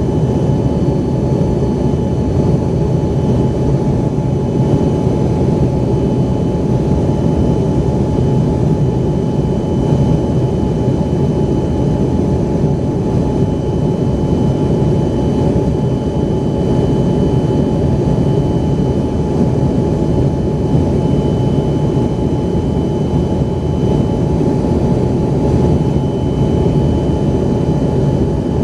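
Steady cabin noise of an Embraer ERJ-135 heard from inside near the rear-mounted Rolls-Royce AE 3007 turbofans: a constant low rush with a thin steady fan whine over it, unchanging throughout.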